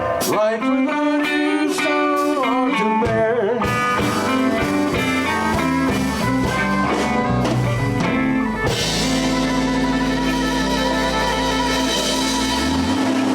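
Live blues band playing an instrumental passage: a lead line with bent, wavering notes over sparse backing at first, then bass and drums come in fully a few seconds in, with cymbals washing loudly from about nine seconds in.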